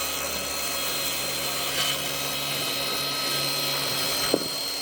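A power tool running at a steady speed, with one sharp click about four seconds in.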